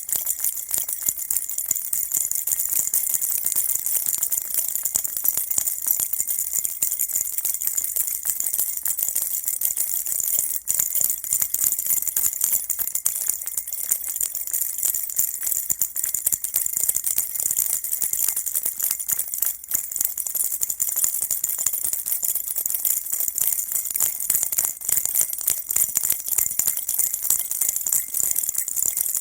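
A baby's rattle shaken on and on: a dense, steady, high-pitched jingling and clicking of small beads or bells, with no pauses.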